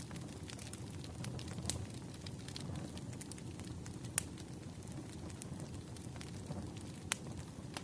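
Wood fire burning: a steady low rumble with scattered sharp crackles and pops, two louder pops about four and seven seconds in.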